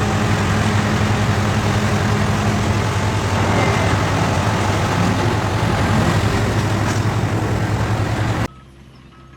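A large engine running steadily and loudly, a low hum under heavy mechanical noise. About eight and a half seconds in it cuts off abruptly to a quieter hum with short high beeps.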